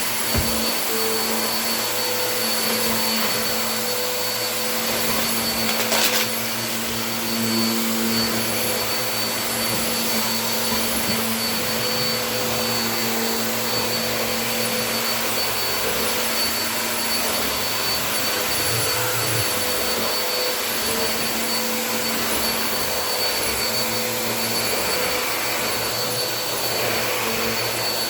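Vacuum cleaner running steadily as it is pushed over a rug, sucking up de-icing rock salt, with a steady whine over its motor noise. A single brief sharp click comes about six seconds in.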